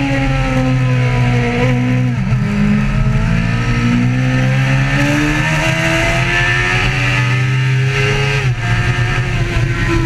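Motorcycle engine pulling hard under acceleration, its pitch climbing slowly and dropping sharply about two seconds in and again near the end, as at gear changes.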